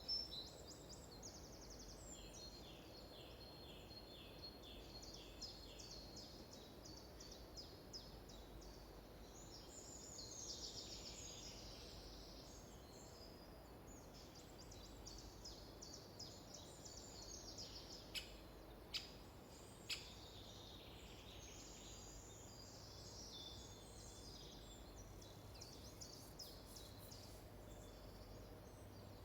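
Small songbirds singing and chirping throughout, with quick repeated notes and rapid trills, over a faint low rumble. Three sharp clicks come about two-thirds of the way through.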